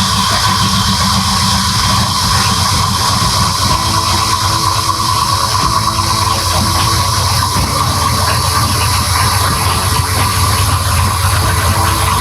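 Newly assembled truck engine running steadily on one of its first test starts.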